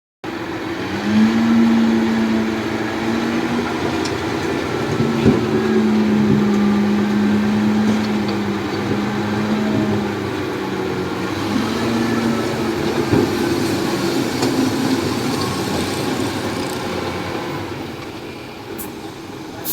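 Heavy diesel machinery at work, running loudly and continuously, with a steady droning tone that holds for several seconds, breaks off about ten seconds in, and returns briefly.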